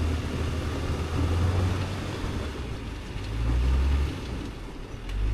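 Tank 500 SUV engine running with a low hum that swells and eases a few times, as if revved in surges while the vehicle sits bogged in soft ground.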